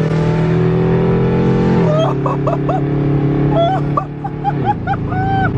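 Chevrolet Camaro engine with long-tube headers pulling hard at high revs under full acceleration, heard from inside the cabin, with two upshifts where the pitch drops, about two seconds in and near the end. Short high yelping calls sound over it from about two seconds in.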